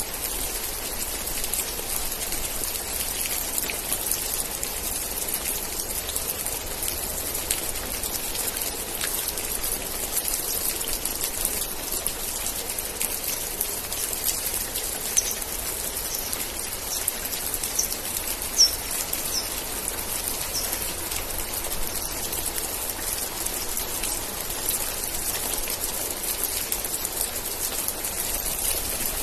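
Steady rain falling and pattering on surfaces, an even hiss of drops. Around the middle a string of short, high chirps sounds over the rain.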